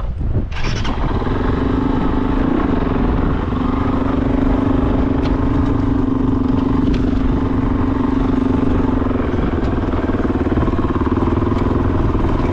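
Kove 450 Rally's single-cylinder 450 cc engine running steadily as the bike rides along a dirt trail, its engine note holding at a fairly even pitch over a heavy low rumble.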